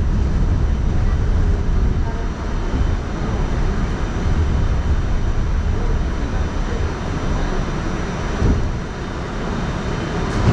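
Staten Island Railway train running: a steady low rumble with a faint steady high tone above it, dipping briefly about two seconds in and again near the end.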